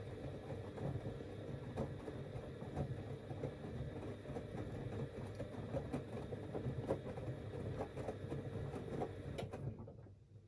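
Siemens Extraklasse XLs 140 A washing machine tumbling its drum in the wash phase, the motor running steadily under irregular soft knocks from the turning load. The drum stops abruptly near the end, leaving only a faint low hum.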